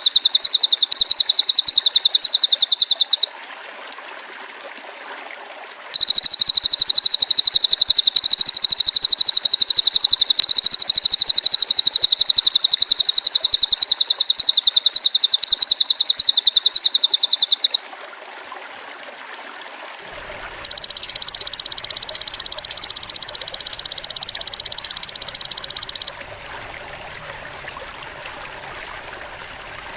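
Masteran training track of cililin bird and belalang emas (golden grasshopper) calls. It has long, high-pitched, fast-pulsing buzzy trills. One trill ends about three seconds in, a long one runs from about six to eighteen seconds, and a denser, steadier buzz lasts from about twenty-one to twenty-six seconds. Short pauses of faint hiss separate them.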